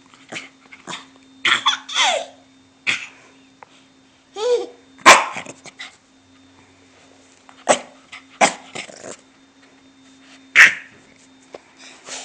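Puppy barking in short, separate yaps, with the loudest about five seconds in and again near the end.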